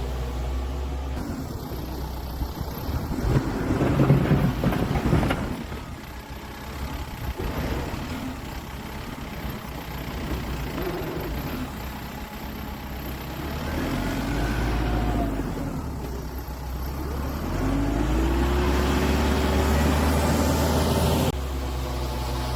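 Kubota M7060 tractor's four-cylinder diesel engine working under load while moving snow, its revs rising and falling. It is loudest about four seconds in, and again for a few seconds near the end, when the pitch climbs and holds.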